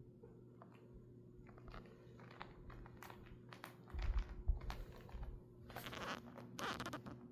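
Scattered crinkling and clicking noises with a few soft thumps about four seconds in, then two longer rustling bursts near the end.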